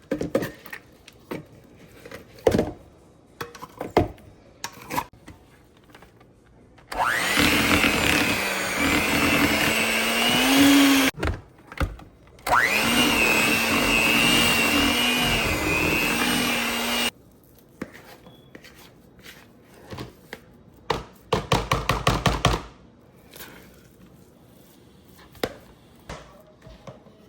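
Metal spoon scraping and knocking as refried beans are spooned out of a can, then an electric blender runs twice for about four seconds each, its motor whining up to speed as it blends the beans smooth. Later comes a quick string of short pulses from the blender.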